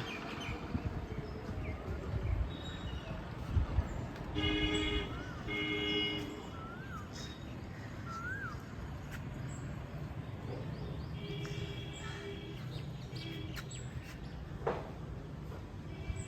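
Birds calling outdoors: short harsh calls, a pair about four and a half seconds in and more around eleven seconds, with small rising-and-falling whistles in between. A steady low rumble runs underneath.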